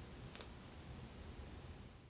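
Faint steady room hiss with one soft click about half a second in, from hair being twisted and rolled onto a perm rod.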